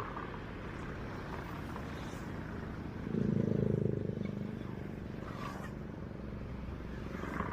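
Road traffic: a steady low hum of passing vehicles, with one vehicle going by loudest about three seconds in.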